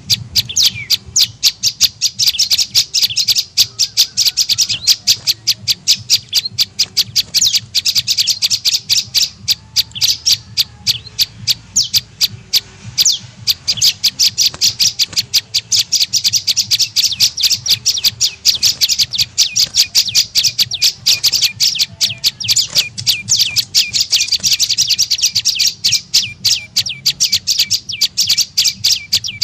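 Prenjak lumut lure call: a rapid, unbroken series of sharp, high chirps, several a second, used to draw in wild birds of the same kind.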